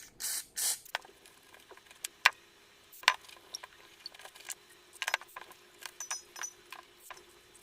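Two short hisses of cleaning spray in the first second, then scattered light clicks and brief rubbing as a lint-free cloth wipes the phone's frame clean.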